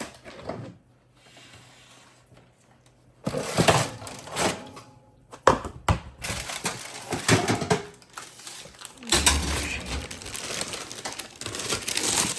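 Rapid clicking, rattling and knocking of objects being handled, starting about three seconds in, with a heavier thump about nine seconds in.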